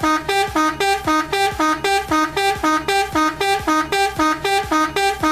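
A horn honking in a rapid, even train of short pitched blasts, about four a second, each stepping up slightly in pitch.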